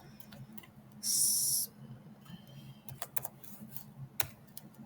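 A few scattered computer-keyboard keystrokes as a date is typed into code, over a faint steady low hum. A short hiss lasting under a second about a second in is the loudest sound.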